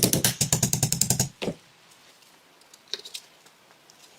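A fast run of small clicks and rattles, about ten a second, from handling the pistol's parts during disassembly. It stops about a second in, and a few faint ticks follow later.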